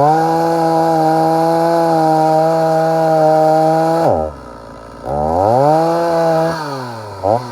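Stihl MS 290 two-stroke chainsaw held at steady full throttle in a cut through dry wood for about four seconds, then dropping to idle. It revs back up for a second or so, falls off, and is blipped in quick short revs near the end.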